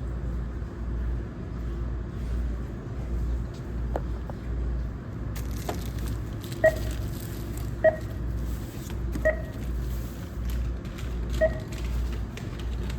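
A low steady rumble, with a short electronic beep that repeats about every one to two seconds from about halfway through.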